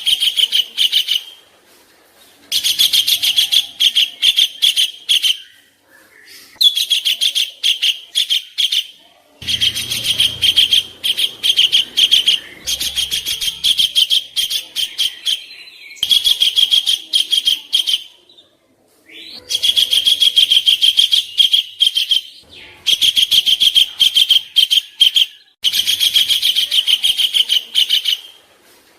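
Songbird giving harsh, rapid rattling chatter: the coarse 'kasaran' calls of a masteran track for training competition birds. The chatter comes in bouts of two to three seconds with short pauses between them, about eight bouts.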